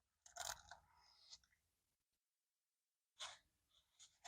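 Near silence: room tone, with two faint, short soft sounds, about half a second in and again about three seconds in.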